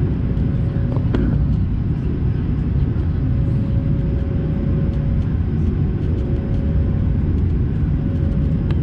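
Steady cabin roar of an Airbus A220-300 in flight, from its Pratt & Whitney PW1500G geared turbofans and the airflow over the fuselage, with a faint steady hum riding over the low rumble. A faint click about a second in.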